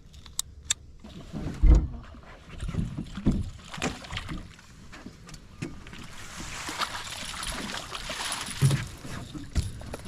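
Handling noises in a small fishing boat: a few clicks, a heavy thump about two seconds in and several knocks after it, then a few seconds of steady rushing water noise.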